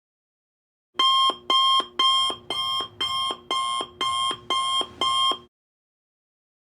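Electronic alarm clock beeping: about nine identical quick beeps, two a second, starting about a second in and stopping abruptly some four and a half seconds later.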